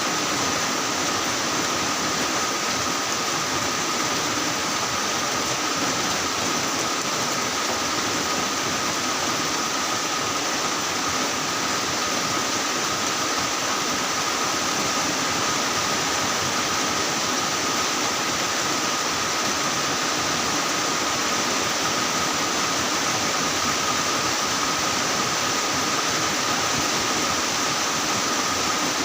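Heavy rain falling steadily, an even unbroken hiss, with a thin steady high tone held through it.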